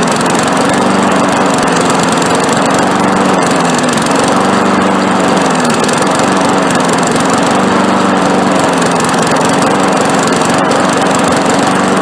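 Push mower's 5.5 hp Briggs & Stratton engine running unevenly and surging: its speed sags and picks back up a few times. The owner blames the surging and missing on the carburetor.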